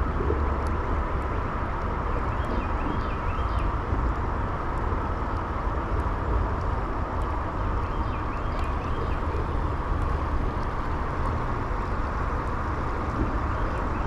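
Creek water running steadily over a low rumble, with a small bird's short chirping phrase heard about three times.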